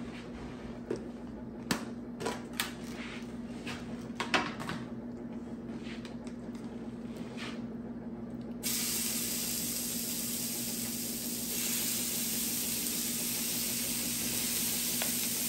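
A few light taps on a Blackstone 22-inch E-Series electric griddle, then about eight and a half seconds in a loud, steady frying sizzle starts suddenly as raw chicken goes onto the hot plate.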